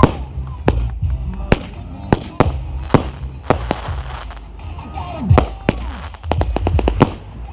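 Fireworks going off in quick succession: a string of sharp bangs and cracks, over music with a steady bass line.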